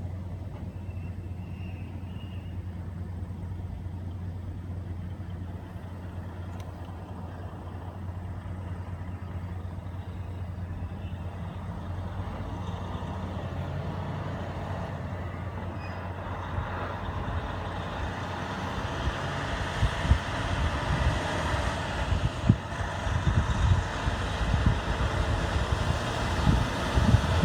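Truck engine and road noise: a steady low hum that builds over the last ten seconds into a louder, rougher rumble with irregular low thumps.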